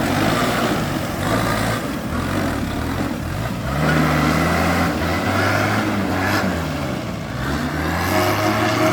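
Tractor engine running, its pitch rising and falling as the throttle is worked, over a steady low running note.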